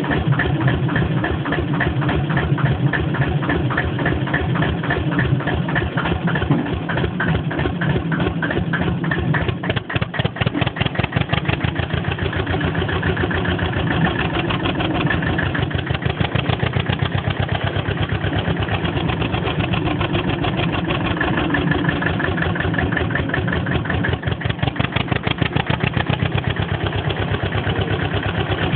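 Deutz F2L514 air-cooled two-cylinder, two-litre diesel engine running, its exhaust giving an even, rapid pulsing beat; around ten seconds in the individual beats stand out more distinctly for a moment.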